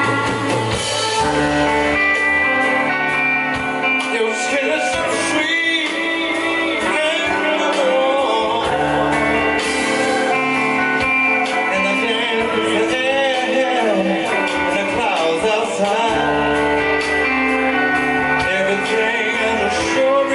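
Blues-rock band playing live: electric guitar with bass and drums, and a man singing with bending, wavering notes.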